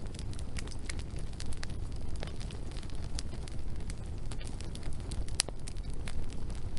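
Wood fire burning, with a steady low rush and frequent sharp crackles and pops at irregular moments, one louder pop about five seconds in.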